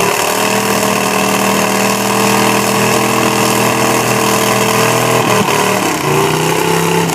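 V8 engine of a Toyota mud truck on tractor tires held at high, steady revs during a burnout, with a brief dip in revs about five seconds in before it holds again.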